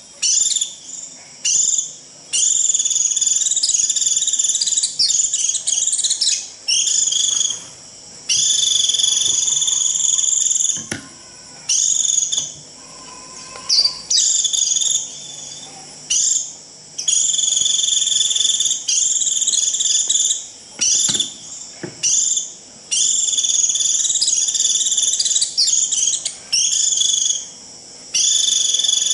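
White-eye (vành khuyên) giving its shrill 'rít' flock call, used to gather a flock: repeated high, buzzy trilled phrases of one to three seconds, with short gaps between them.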